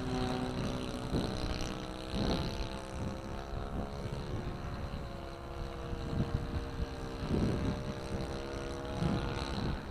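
Kadet LT40 radio-control trainer's nitro glow engine running steadily as the plane flies at a distance, heard from the ground. Gusts of wind buffet the microphone several times.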